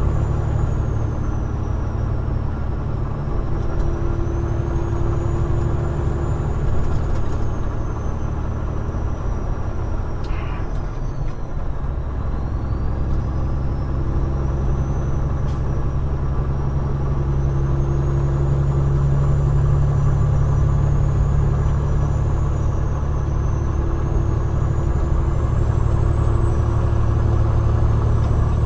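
Peterbilt 389 glider's diesel engine running steadily while the truck drives down the road, with a constant low drone and road noise. About twelve seconds in, the engine note shifts and a deeper hum grows stronger for several seconds.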